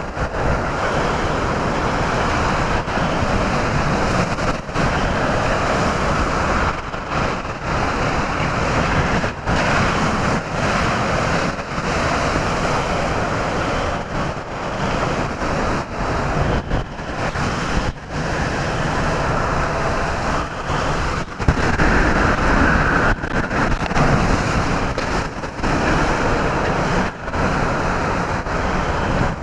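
Category 4 hurricane winds blowing hard and buffeting the microphone: a loud, continuous rush of wind noise that surges and dips with the gusts, strongest about two-thirds of the way through.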